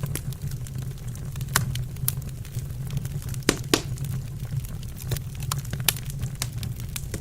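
Wood fire burning in a fireplace, crackling with frequent sharp pops over a steady low rumble. The loudest pops come about one and a half to four seconds in.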